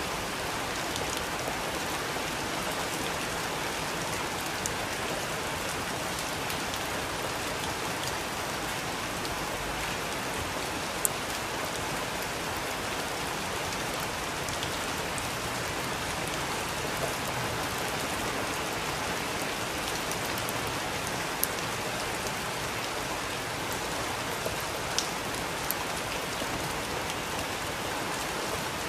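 Steady rain falling, an even hiss with scattered sharp drips and ticks of drops hitting a surface.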